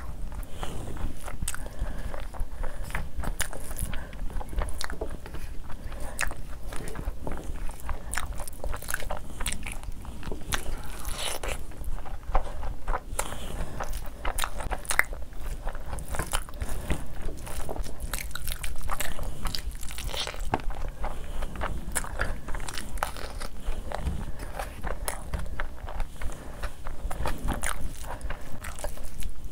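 Close-miked chewing of mouthfuls of curry-mixed rice eaten by hand, with many short, irregular mouth clicks as the food is worked.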